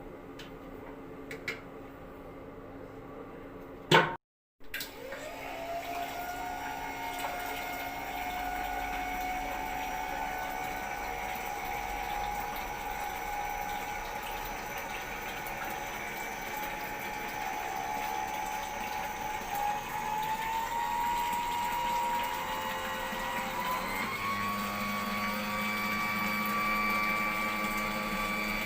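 Aircraft fuel booster pump running on a test bench: an electric pump whine over rushing fluid. It starts a few seconds in, rises as it spins up, then steps higher in pitch twice near the end. Two clicks come before it starts.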